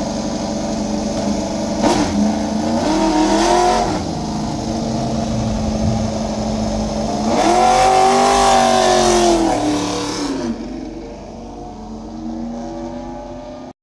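Racing motorcycle engines at high revs, rising and falling in pitch as bikes go by, loudest twice. Near the end the sound drops away and turns quieter.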